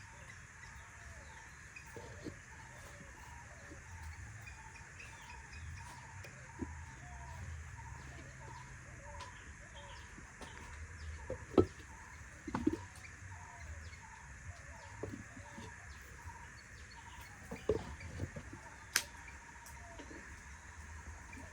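Quiet outdoor ambience of bird calls, including chicken-like clucking, over a steady background chorus with a short note repeating about twice a second. A few sharp knocks and clicks come in the second half.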